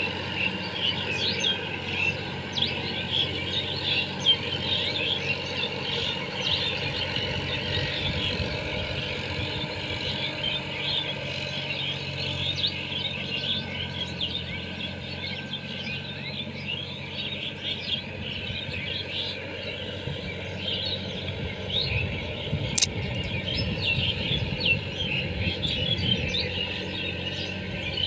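Sonalika diesel tractor engine running steadily, with many small birds chirping over it the whole time.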